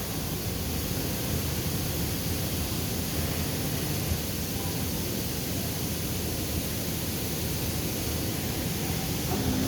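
Steady hiss and rumble of woodworking machinery running, with a low hum that comes in near the end.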